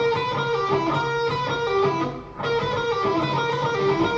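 Electric guitar playing a short E blues-scale lick on the G, B and D strings, with a pull-off. It is played twice, with a brief gap about two seconds in.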